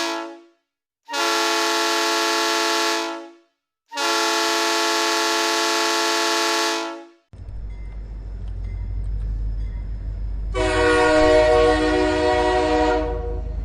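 Played train horn sound: the end of one long blast, then two more long blasts with silent gaps between them. About seven seconds in, a steady low rumble of a running train starts, and another long horn blast sounds over it.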